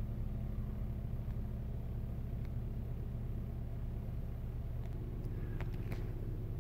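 Chevrolet car engine idling, a steady low hum heard from inside the cabin, with a few faint clicks.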